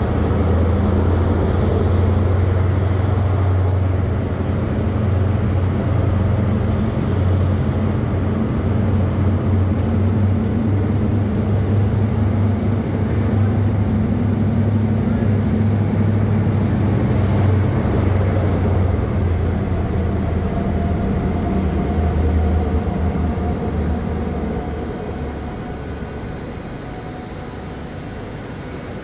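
A train running close by with a steady low drone and a few brief high clanks, fading away over the last few seconds.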